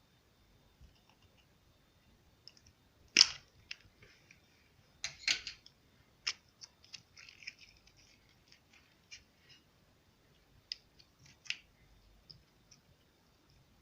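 Slime being worked by hand, giving scattered sharp clicks and crackles with quiet gaps between. The loudest pops come about three seconds in and again around five seconds.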